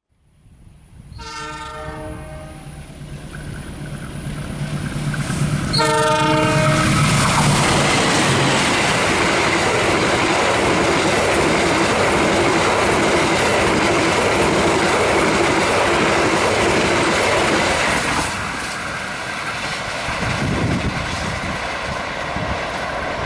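Diesel locomotive horn sounding two blasts, the second about five seconds after the first, then a passenger train passing close at speed: a loud rush of wheels on rail and coaches for about ten seconds that drops off as the train moves away.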